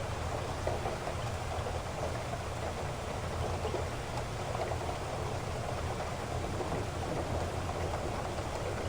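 Heavy rain falling steadily: a dense, even downpour with no single drops or breaks standing out.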